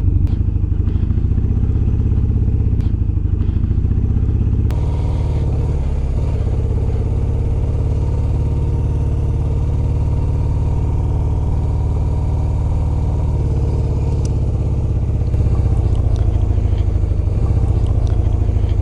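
BMW R1100RT motorcycle's boxer twin engine running steadily at low revs, with no revving.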